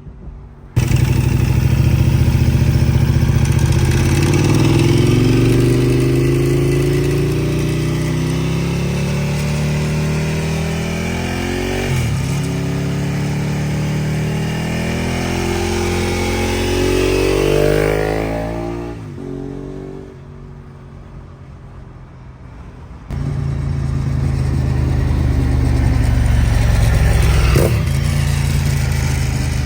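Ducati 1098R's V-twin engine through a Termignoni full racing exhaust, running loud. Its pitch rises in long pulls and falls back sharply several times, as when the engine is revved and let off. The sound drops to a lower level about two-thirds of the way through, then comes back loud suddenly.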